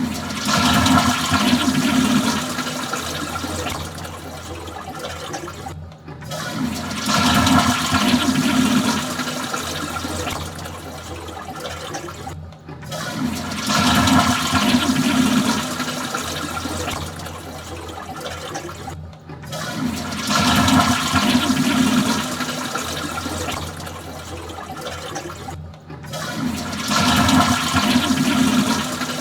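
Toilet flushing, five times, about every six and a half seconds, each with a brief silent gap before it. Each flush is a loud rush of water for two or three seconds that eases into quieter running water.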